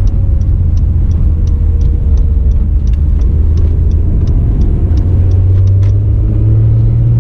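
Cabin sound of a 2017 Acura NSX's twin-turbo V6 hybrid powertrain cruising, a low steady drone whose pitch rises a little near the end. A light ticking repeats about three times a second above it.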